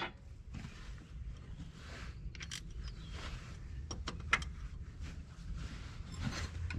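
Scattered light metallic clicks and clinks of a wrench working at a stubborn bolt, over a low steady hum.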